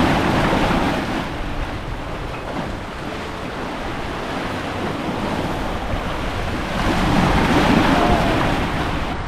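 Big following seas rushing around a sailing catamaran under way, with wind buffeting the microphone; the rush swells near the start and again about seven seconds in.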